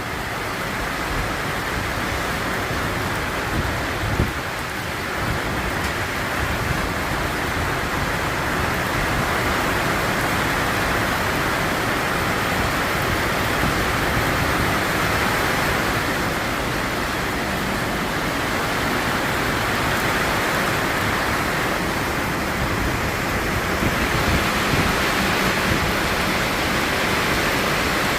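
Rain falling, a steady dense hiss, with a short thump about four seconds in.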